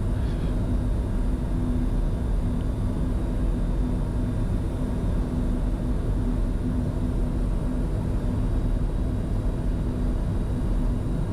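Steady cockpit noise of a Bombardier Challenger 605 jet in flight on approach with the landing gear down: an even rumble of airflow and engine noise with a constant low hum underneath.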